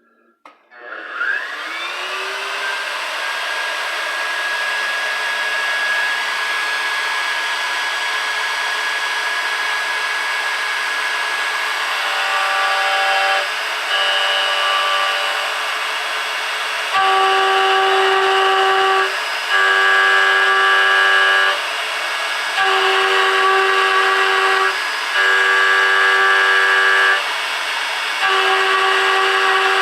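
proLIGHT 2000 desktop CNC mill spindle spinning up with a rising whine, then running steadily. From about twelve seconds in, a four-flute TiAlN-coated endmill cuts case-hardened steel in repeated passes of about two seconds each, with short breaks between them. Each pass rings with a loud, steady tone, the chatter of a deliberately aggressive cut.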